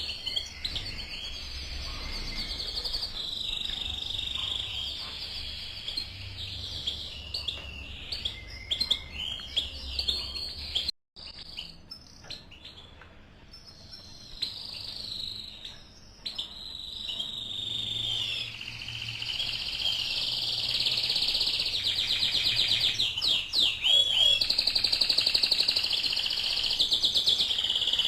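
Caged male canary and female European goldfinch chirping and singing in quick trills and twitters. There is a brief cut-out about eleven seconds in, and the song grows louder and more continuous in the second half.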